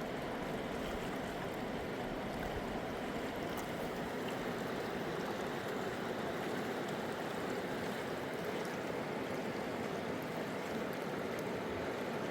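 Steady rushing of a flowing stream, an even wash of water sound with no pauses.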